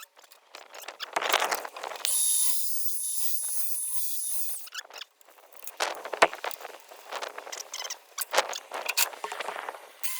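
Metalworking on a steel rod: repeated bursts of scraping or rasping, with a high steady whine from a power tool for a couple of seconds about two seconds in.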